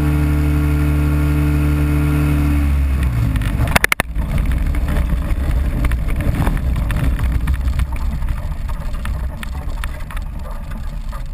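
Powered parachute engine running steadily, then cutting out about three seconds in. A short rattle of clicks follows, and a low rumbling noise slowly fades.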